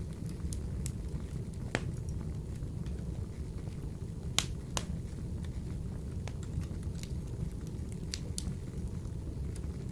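Wood fire burning in a wood-burning stove: a steady low rumble with sharp crackles and pops at irregular intervals, the loudest pop about four and a half seconds in.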